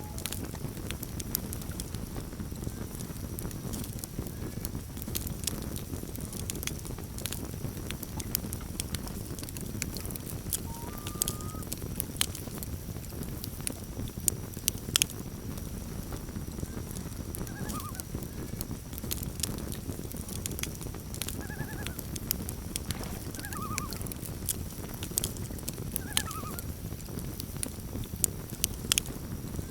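Campfire burning with a low rumble and frequent sharp crackles and pops. Faint, short loon calls come several times, mostly in the second half.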